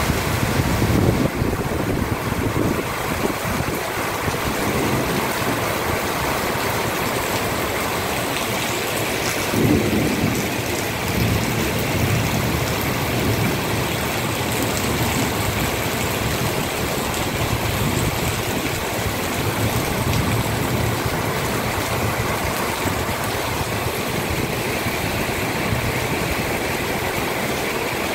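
Torrential rain pouring steadily onto pavement and foliage, a dense even hiss. Brief low rumbles swell up about a second in and again around ten seconds in.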